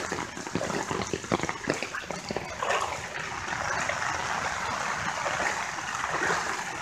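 Footsteps wading through floodwater, with irregular splashes, over a steady hiss of pouring rain that becomes the main sound in the second half.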